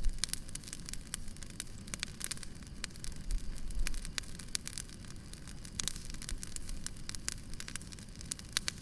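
Campfire crackling: irregular sharp pops and snaps of burning wood over a steady low rumble of the flames, with one loud pop at the very start and a brief low rumble about three seconds in.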